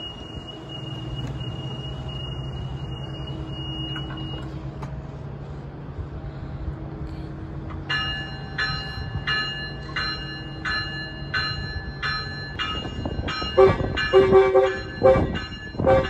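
Metrolink commuter train preparing to depart: a steady high door-warning tone sounds while the doors close, over the low steady hum of the train idling. From about eight seconds in the cab car's bell rings about one and a half times a second, and loud short horn blasts sound near the end.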